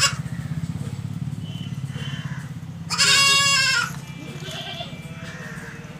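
Goat bleating: one loud, wavering bleat about three seconds in, with fainter calls before and after it.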